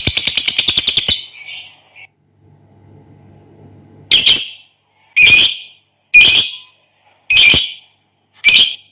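Lovebird's long, rapid chattering trill (the 'ngekek' call) ending about a second in, then five loud, high single squawks about a second apart.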